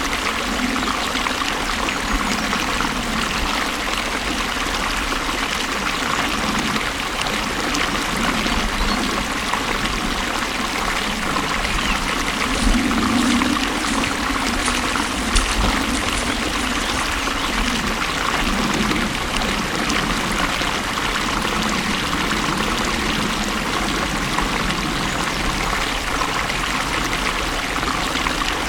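Water flowing and trickling steadily, with a low gurgling that swells and fades.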